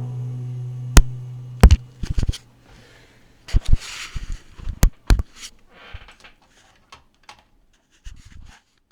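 The last held note of a song dies away over the first second or so, then scattered sharp clicks and knocks with brief rustling, like something being handled close to the microphone; the loudest click comes about a second in.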